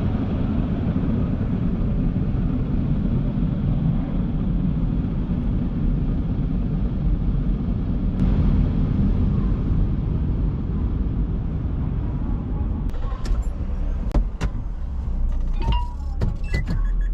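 Daifuku TWINFECT FORCE automatic gantry car wash running with a steady rumbling, rushing noise. A series of sharp clicks and knocks comes in during the last few seconds.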